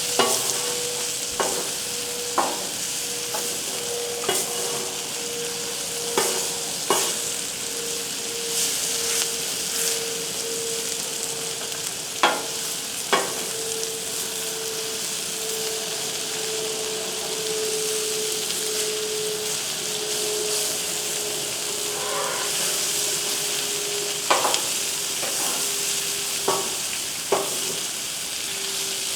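Food sizzling and frying on a flat-top griddle, a steady hiss with a dozen or so sharp clicks and taps. Under it a steady background hum slowly sinks in pitch.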